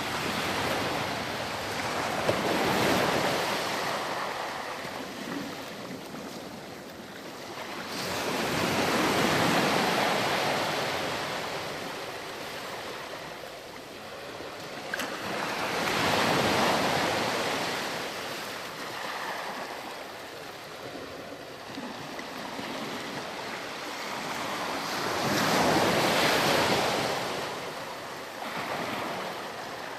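Ocean waves breaking on a sandy beach and washing back, each wave swelling and fading about every eight to ten seconds, about three to four waves here.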